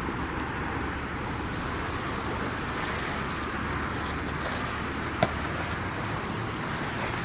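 Wood campfire burning: a steady rushing noise with a few sharp pops, the loudest about five seconds in.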